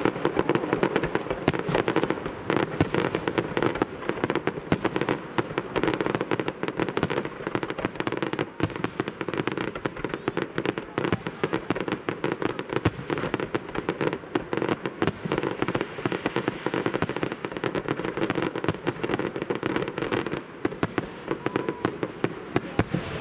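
Aerial fireworks shells bursting in a dense barrage: a continuous rapid crackle of many sharp reports in quick succession, with no pause.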